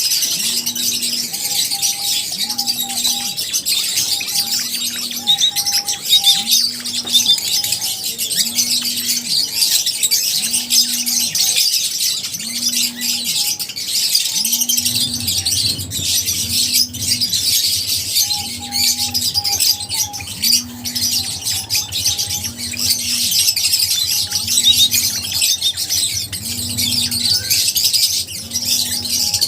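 Many lovebirds chirping and calling at once, a dense, continuous high-pitched chatter. Underneath, a low tone repeats about every second and a quarter, with a lower layer joining about halfway, like a background music loop.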